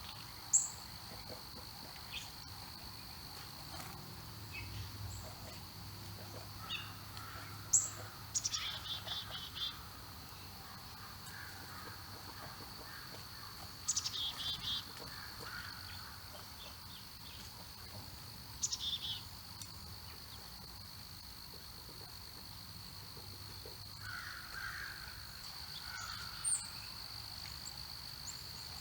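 Songbird singing the same short phrase four times, about every five seconds: a sharp high note, then a quick trill. Under it runs the steady high drone of insects such as crickets, with a few fainter chirps from other birds.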